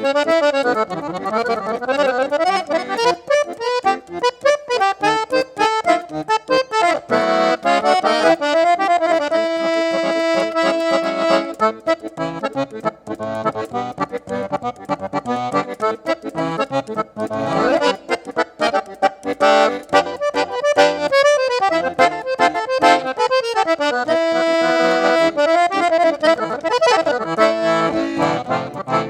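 Accordion (sanfona) playing a fast instrumental piece of quick note runs, with held chords about ten seconds in and again near the end.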